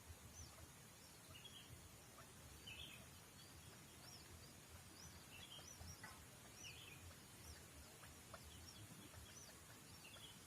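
Faint, repeated high chirps of small birds, short arching notes about twice a second, with a few lower, rougher calls every couple of seconds, over a low rumble of wind or outdoor noise.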